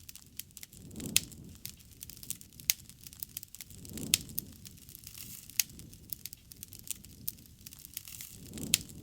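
A wood fire crackling, with many sharp irregular pops and snaps over a low hiss. Soft low swells of sound come in about every three to four seconds.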